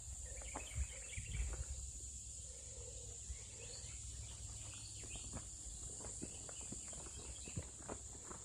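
Steady high-pitched chorus of insects, with scattered clicks and rustles of footsteps and a few brief chirps.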